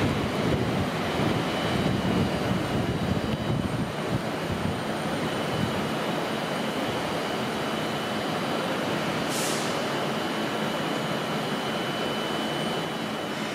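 Transport for Wales Class 197 diesel multiple unit pulling away, its engine and wheel noise slowly easing as it draws off. A brief hiss about nine seconds in.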